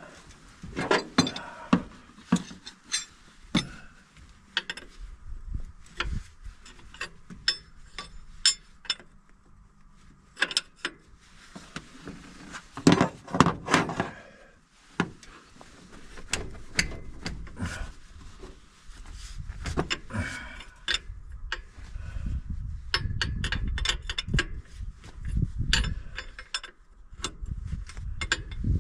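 Hand tools clinking and knocking on metal in irregular strokes, with the work on the wrecker's loose idler pulley under the hood. A low rumble comes in about halfway through.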